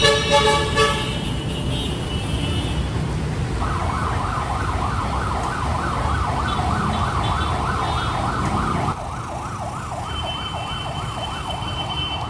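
Emergency vehicle siren on a fast yelp, wailing up and down about four times a second, over a steady rumble of road traffic; it starts a few seconds in and gets quieter near the end. A vehicle horn sounds at the start.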